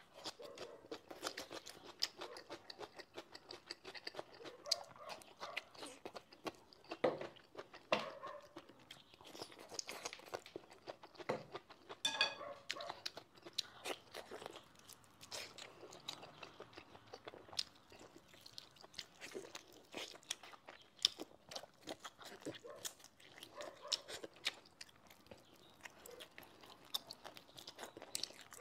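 Close-miked eating sounds: chewing and biting with crunching and many small wet clicks, first of braised lotus root slices and then of braised pork tail.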